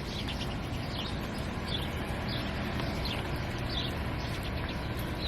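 A small bird chirping, a regular series of short high notes a little faster than one a second, over a steady outdoor background hiss.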